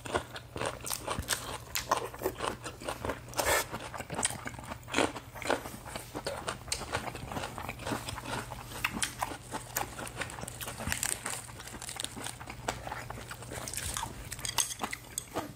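Close-miked chewing and biting of lettuce wraps with spicy stir-fried pork, many irregular crisp crunches and wet mouth sounds.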